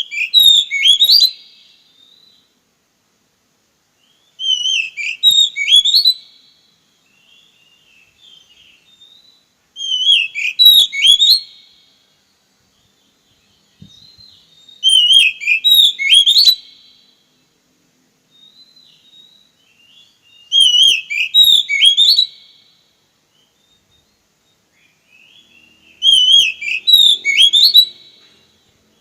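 Oriental magpie-robin (kacer) singing the same loud, two-second phrase of quick rising and falling high notes over and over, six times, about every five and a half seconds.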